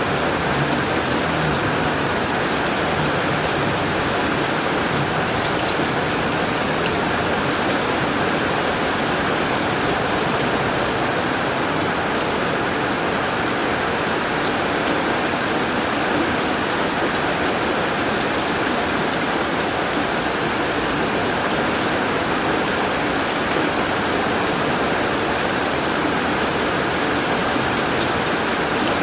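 Steady heavy rain drumming on a tin roof, a dense even patter with faint individual drop ticks.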